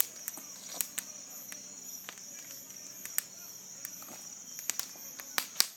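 Wood bonfire crackling, with irregular sharp pops, the loudest near the end, over a steady high chirr of night insects.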